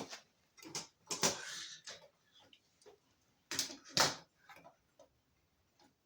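Irregular hard clicks and short clatters of small parts being handled, with a brief scrape about a second in and the loudest pair of clicks a little past halfway.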